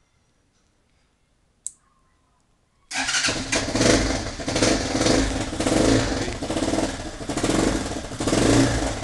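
A 250cc dirt bike engine fires up suddenly about three seconds in, then runs while being revved up and down in uneven waves. Before it starts there is near silence with one brief high squeak.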